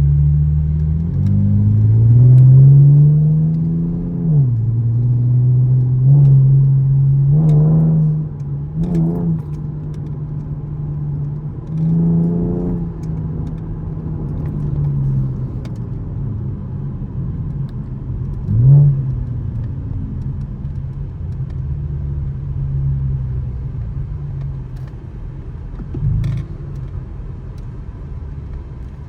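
2013 Camaro LS's 3.6-litre V6 under way: it pulls up through the revs and drops pitch at a gear change about four seconds in. Several short rev blips follow, as on downshifts, and it then settles to a steady, quieter cruise.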